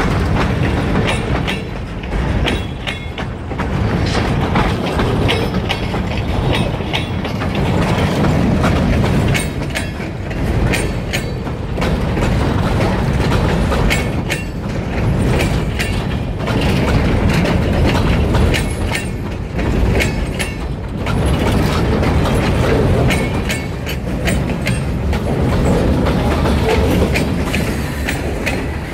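Freight train rolling past: a steady, loud rumble of the cars, with the wheels clicking over the rail joints.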